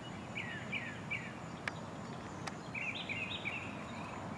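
A songbird chirping: a few short, falling chirps in the first second or so, then a quick run of about five more around three seconds in.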